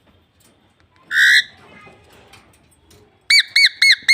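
A pet parrot gives one loud, harsh squawk about a second in, then near the end a fast run of short, arched chirps, about five a second.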